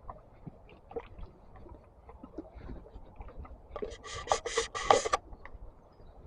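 Footsteps on a path as small scattered ticks, then a rubbing, scraping sound close to the microphone for about a second and a half just past the middle, the loudest thing here.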